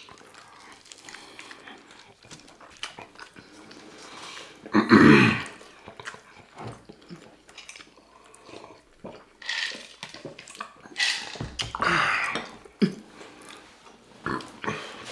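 Mouth noises of people eating cubed steak in gravy: wet chewing and lip-smacking with scattered small clicks, and a few louder mouth sounds, the loudest about five seconds in.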